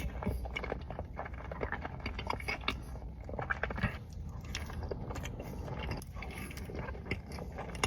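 Close-miked eating sounds of someone chewing boxed macaroni and cheese: soft, wet chewing with many small mouth clicks and smacks.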